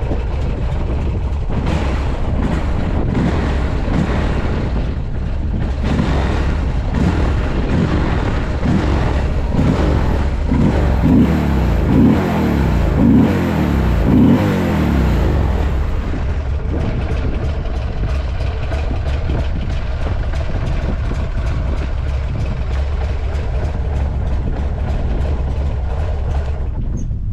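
Buell X1 Lightning's air-cooled V-twin engine running at idle, revved four times in quick succession around the middle. By the seller's account it runs with no abnormal noises.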